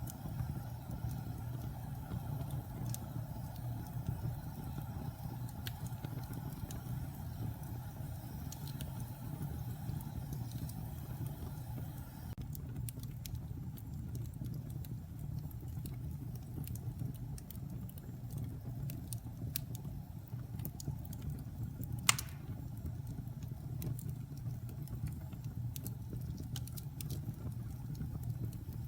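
Fire burning in a fireplace: a steady low rumble with scattered small crackles and one loud pop about 22 seconds in.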